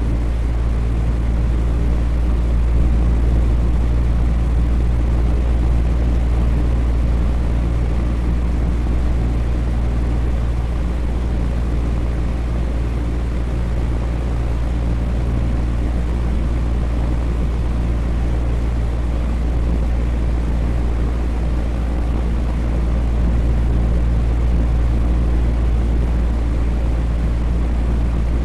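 Electric fan running steadily: a continuous whooshing air noise with a deep low hum.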